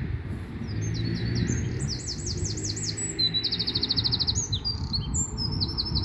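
A small songbird singing a rapid song of high trills and fast repeated notes, starting about a second in, over a low rumble.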